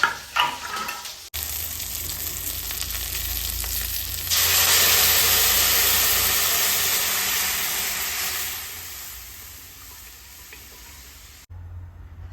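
Food sizzling as it fries in a pan, with a few stirring scrapes and clicks of a utensil in the first second. About four seconds in, the sizzle turns much louder, then slowly dies down over the following seconds.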